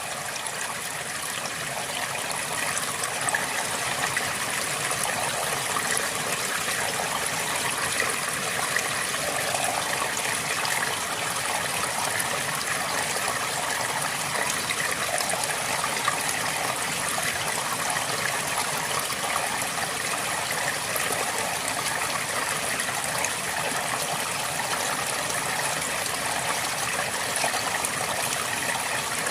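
River water flowing steadily, a continuous rushing and trickling that swells slightly over the first few seconds.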